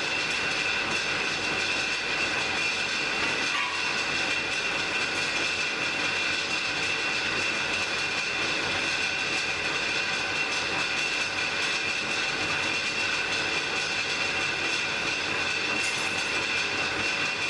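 Blacksmith's forge fire burning: a steady rushing hiss with a constant high tone running through it.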